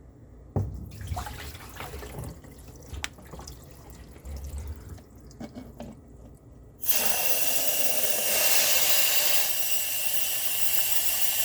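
A few quiet knocks and handling sounds, then about seven seconds in water starts rushing out hard and steady as a small 10-gallon tank water heater is flushed.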